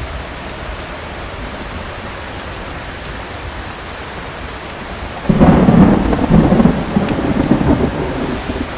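Heavy rain falling steadily, then a sudden loud rumble of thunder about five seconds in that rolls for a few seconds and dies down.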